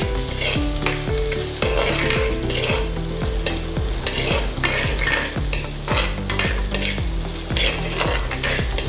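Shallots, garlic, ginger, green chillies and curry leaves sizzling in hot coconut oil in a clay pot. A metal spoon stirs them, scraping across the pot in repeated strokes about once or twice a second.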